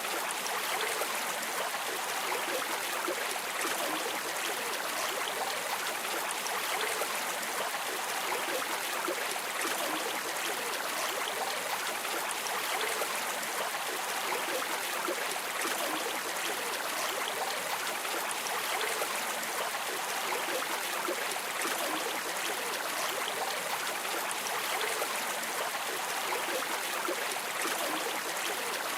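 Flowing stream water running steadily, a constant rushing trickle.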